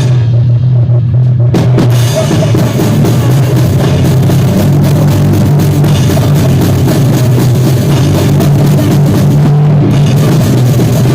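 Live rock band playing loudly in rehearsal, the drum kit and heavy bass to the fore in a poor-quality recording. The cymbals drop out for about the first second and a half, then the full kit comes back in.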